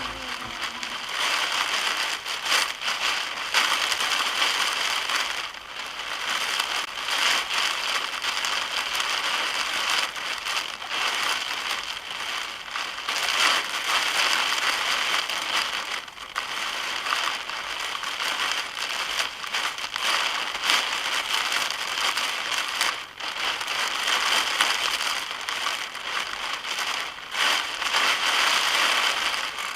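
Heavy storm rain pelting a car's roof and windscreen, a dense steady hiss shot through with irregular sharp hits.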